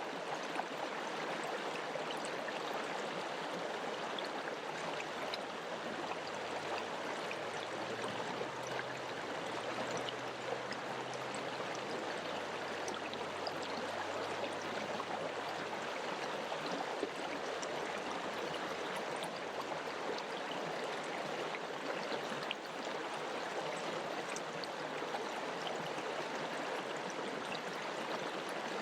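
Mountain river water rushing steadily, an even, unbroken flow.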